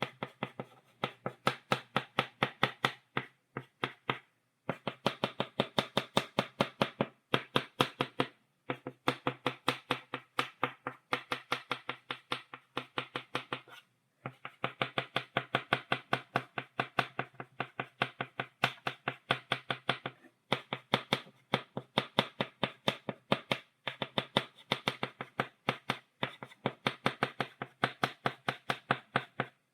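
Chalk tapping on a blackboard to make dots: rapid sharp taps, several a second, in runs of a few seconds with brief pauses between.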